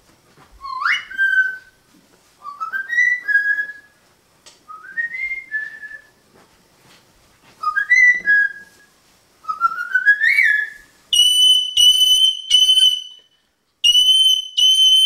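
A parrot whistling: five rising whistles about two seconds apart. From about eleven seconds in, a quick run of short, level, high beep-like notes follows, like a mimicked alarm beep.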